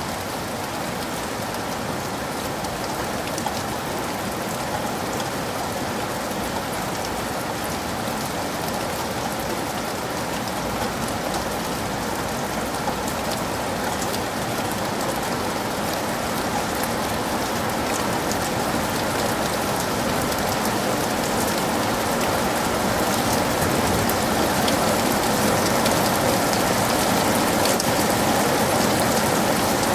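Heavy rain falling steadily, a dense even hiss of drops with no thunder, growing gradually louder over the second half.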